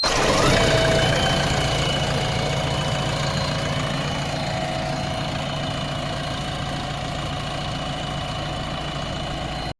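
Heavy diesel engine of an earthmoving machine running steadily, with a low hum and a thin steady whine over it, slightly louder in the first second.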